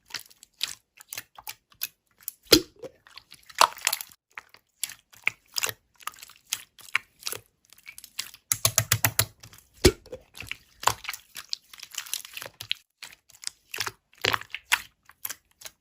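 Slime being squished and poked by hand: a string of sticky clicks, pops and crackles, with a quick run of crackles about nine seconds in.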